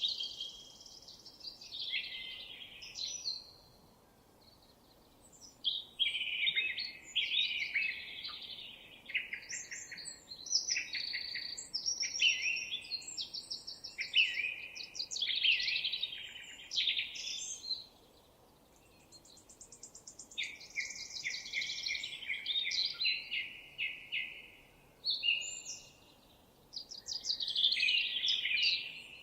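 Songbirds singing: quick, varied runs of chirps and trills in phrases several seconds long, broken by short pauses, over a faint steady outdoor background.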